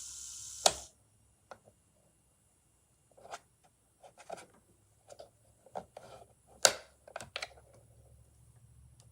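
Electric nail drill motor running with a steady high whir in reverse, the only direction it will still turn, cut off with a sharp click just under a second in. Then scattered clicks and light knocks of the machine being handled.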